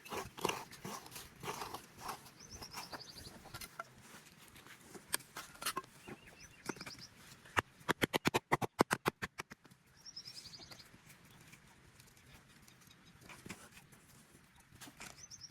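Small birds chirping: short quick runs of high notes falling in pitch, heard three times. About halfway through comes a loud run of sharp clicks, about ten a second for two seconds.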